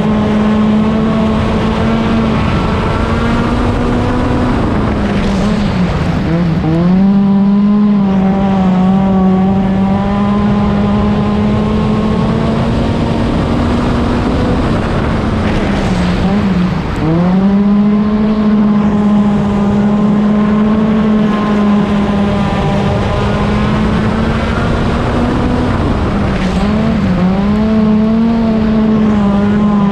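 Stock car engine running at high, steady revs. Three times, about ten seconds apart, the pitch drops briefly and then climbs back, as the throttle is lifted for the corners and reapplied.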